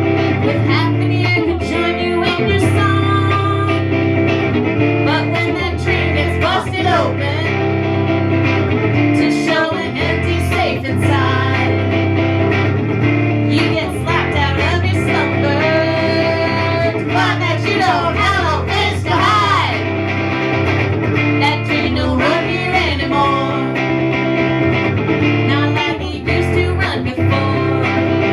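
Acoustic string band playing an instrumental break: guitar chords under a lead melody that slides between notes.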